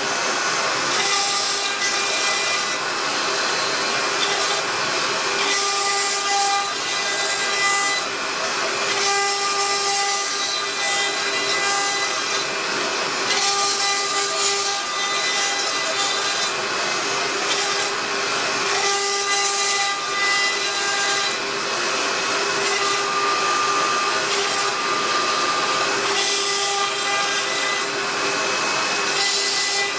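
CNC router spindle milling carbon fibre sheet: a steady whine over a hissing cutting noise, its tones changing every few seconds as the cutter works along the cut.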